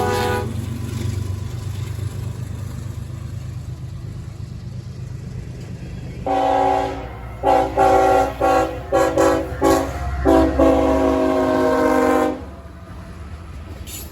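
Diesel locomotive air horn with several tones sounding together: one blast ends about half a second in, then after a pause a string of blasts of varying length, the last one long, over the low steady rumble of the locomotive.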